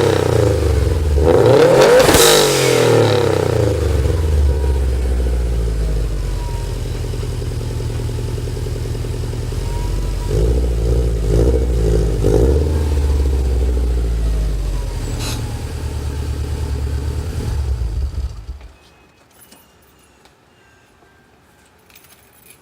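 Subaru STi's turbocharged flat-four boxer engine on its original unequal-length headers, running with its boxer rumble: revved twice in the first few seconds, then idling with a few lighter blips around ten to twelve seconds in. The engine is switched off about eighteen seconds in.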